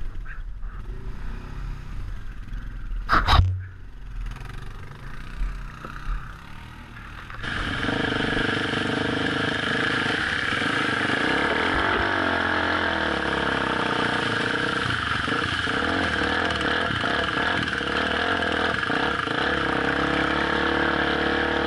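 Scattered handling noises with one sharp knock about three seconds in. Then, from about seven seconds in, a dirt bike's engine runs loud and steady at held revs.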